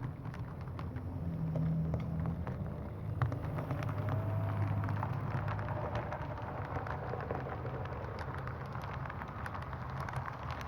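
HO scale model train, an SW1 diesel switcher pulling freight cars, running along the track: a steady low hum with a constant patter of small clicks from the wheels on the rails.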